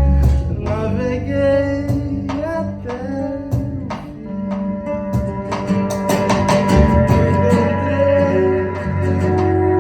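Live acoustic music: singing over a plucked acoustic guitar.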